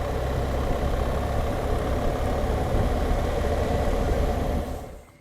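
BMW R1200GS Adventure's boxer-twin engine running steadily under way, with road and wind noise, heard from the moving motorcycle. It drops away suddenly near the end.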